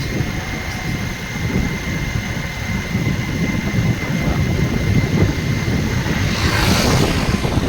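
Steady low rumble typical of a vehicle running, with a faint steady whine above it and a short hiss near the end.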